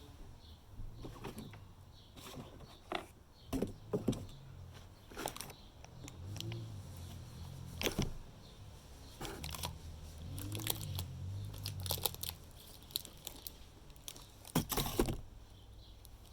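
Irregular clicks, knocks and rustling of parts and packaging being handled during flat-pack furniture assembly, with a low hum for a few seconds in the middle.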